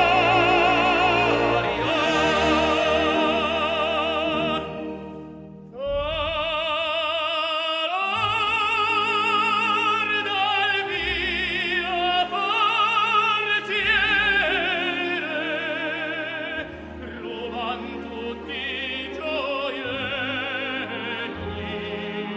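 Operatic tenor singing with strong vibrato over orchestral accompaniment. The voice drops away briefly about five seconds in, then comes back with a rising phrase and long held notes.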